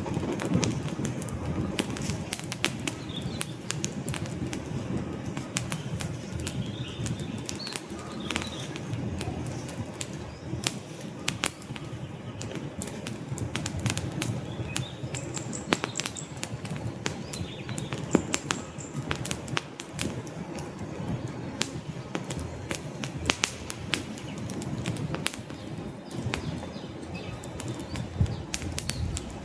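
Wood fire burning in a fireplace: a steady low rush of flame with frequent sharp, irregular crackles and pops from the logs.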